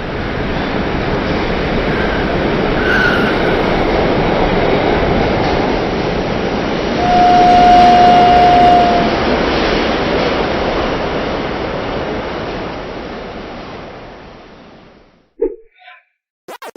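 A train rumbling past, its noise building up, holding, then fading away. A single steady whistle blast of about two seconds sounds midway, at the loudest point.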